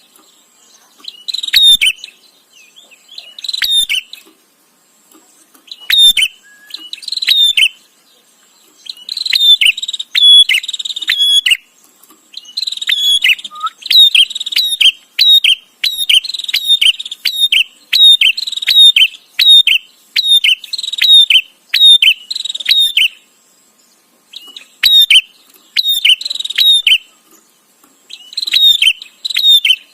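A prenjak (prinia) chattering: bursts of quick, sharp, high chirping notes, each burst lasting one to two seconds with short pauses between, running almost without a break through the middle.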